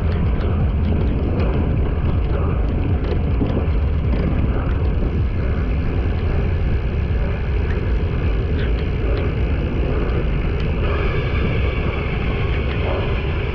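Steady wind rumble on the microphone over the running noise of a vehicle on the move.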